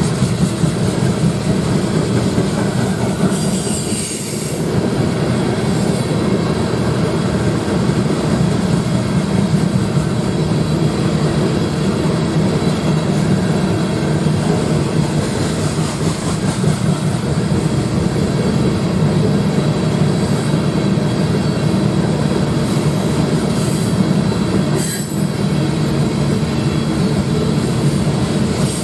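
Freight train of covered hopper cars rolling past: a steady rumble and clatter of steel wheels on the rails.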